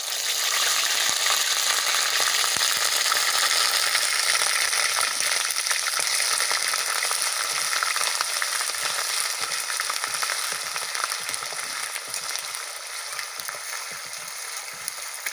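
Onion paste frying in hot oil with whole spices in a metal kadai: a loud, dense sizzle that is strongest over the first several seconds and slowly eases. A flat metal spatula stirs and scrapes against the pan throughout.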